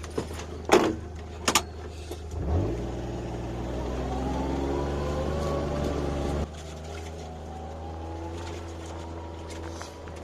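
Kawasaki Mule utility vehicle: two sharp knocks, then the engine revs up and pulls away, rising in pitch for about four seconds before easing off and running on steadily.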